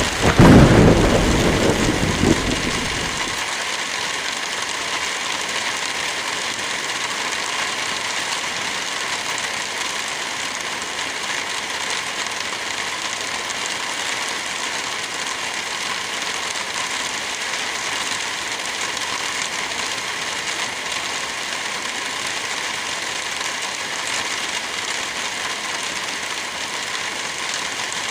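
Light rain hissing steadily on forest foliage with wind blowing through the trees. A deep gust of wind swells loudly in the first second and dies away by about three seconds in.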